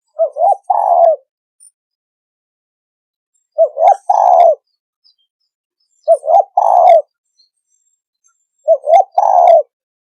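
Spotted dove (cu gáy) of the deep 'thổ sấm' voice type giving its cooing song four times, about every two and a half seconds. Each phrase is two short coos followed by a longer, drawn-out coo.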